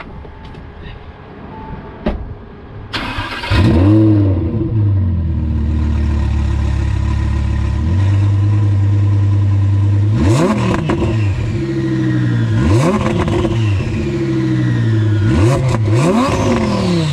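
Twin-turbocharged Audi R8 V10 starting up a few seconds in with a brief flare of revs, settling to a steady idle, then blipped several times, the revs rising and falling each time.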